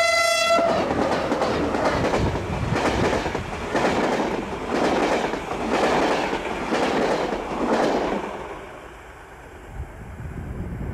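Adtranz DE2000 diesel locomotive and its coaches passing close by, with a short high ringing tone as the locomotive goes past. Then comes the wheels' regular clickety-clack over the rail joints, dying away about eight seconds in as the last coach passes.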